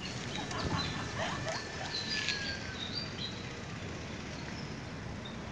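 Outdoor background noise, steady throughout, with a few short high bird chirps about two to three seconds in.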